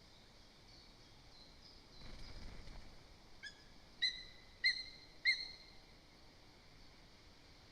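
A bird gives four short, sharp, high calls about half a second apart, the last three loudest, over faint background chirping from small birds. A brief low rumble comes just before the calls.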